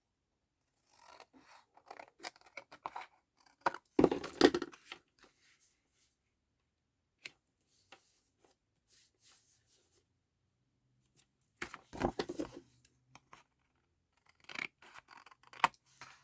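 Scissors cutting through paper card stock in short bouts of snipping, trimming excess off a card panel; the loudest cuts come about four seconds in and again about twelve seconds in, with a quiet pause between.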